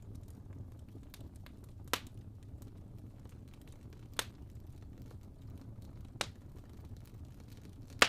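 Wood fire burning in a fireplace: a low steady roar of the flames with sharp log crackles and pops, four loud ones about two seconds apart, the loudest near the end.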